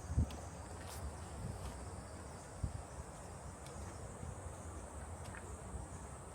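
Insects in summer woodland keep up a steady high-pitched drone. A few soft low thumps from the hiker's footsteps on the trail come through at irregular intervals.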